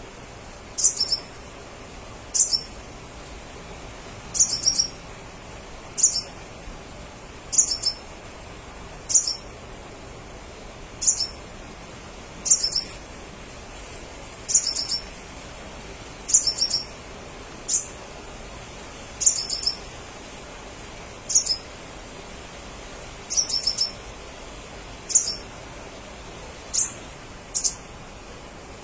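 Crimson sunbird calling: short, high, sharp calls repeated about every one and a half to two seconds, some single and some in quick clusters of several notes that drop slightly in pitch, over a steady faint hiss.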